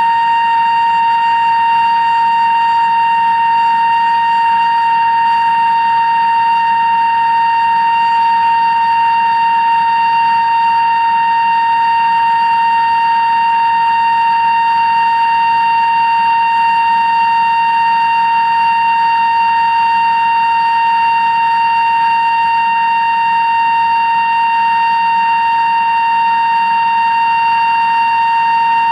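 Kennametal 2-inch-diameter drill cutting through 316 stainless steel on a CNC machine: a loud, steady high-pitched whine that holds one pitch without a break.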